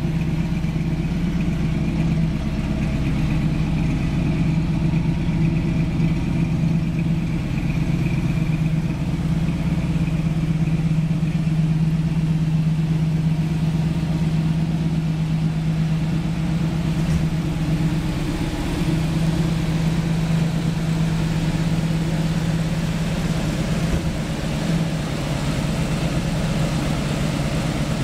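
A 1969 Chevrolet Camaro SS's V8 engine idling steadily.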